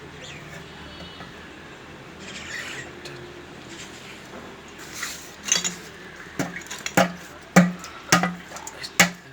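Hand work on a diesel engine while a fuel pipe is pushed onto its fitting: quiet handling at first, then from about halfway a run of sharp knocks and clicks, roughly one every half second.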